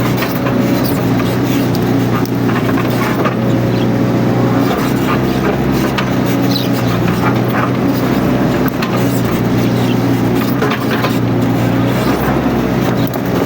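Mini excavator's diesel engine running steadily under working load, with scattered knocks and clatter from the machine working through scrub.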